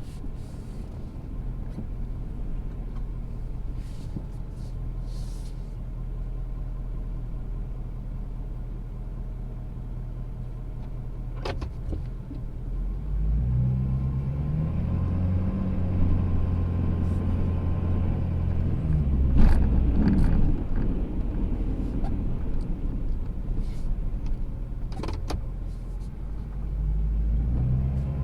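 Ford Super Duty's 6.7-litre Power Stroke diesel V8 running steadily, then from about halfway through working harder, its pitch rising and falling, as the plow truck pushes into ice-crusted snow. A few short knocks, the loudest about two-thirds of the way through.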